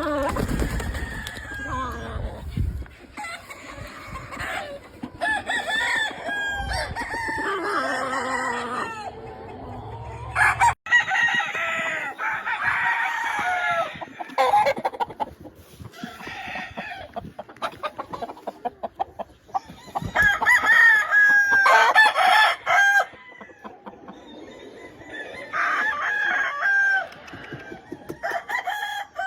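Gamefowl roosters crowing again and again, several crows overlapping and following close on one another, with clucking in between.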